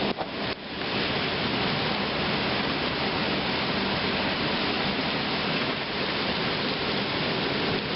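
Heavy rain and wind of a severe thunderstorm, a steady rushing hiss that briefly drops away about half a second in.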